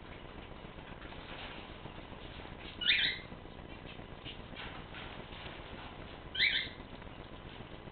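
A pet bird calling: two short, loud, high calls about three and a half seconds apart, with a few faint chirps between them.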